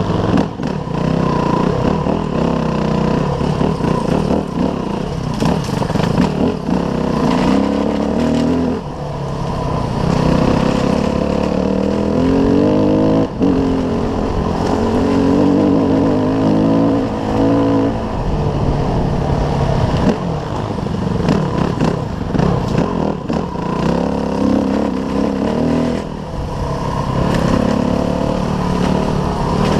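Off-road motorcycle engine being ridden, revving up and falling back again and again as the throttle is worked, with occasional knocks and rattles.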